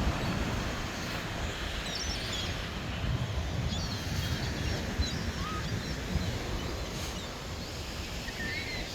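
Steady rushing outdoor noise of wind and surf, with faint, short bird chirps scattered through it.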